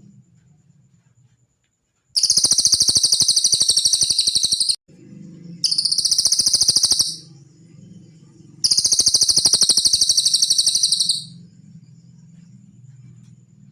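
Cililin songbird giving three long, very fast, high-pitched trills, the first and last about two and a half seconds each and the middle one shorter, over a faint low hum.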